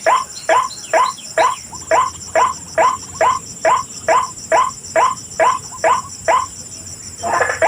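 White-breasted waterhen calling: a harsh note repeated steadily a little over twice a second, each note dropping in pitch. The calls stop shortly before the end, and a buzzy noise comes in.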